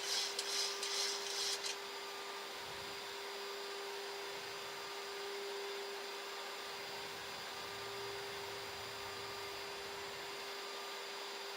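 Boeing 737 flight deck on final approach: steady airflow hiss with a constant hum, and a brief burst of sharper hissing in the first second or two.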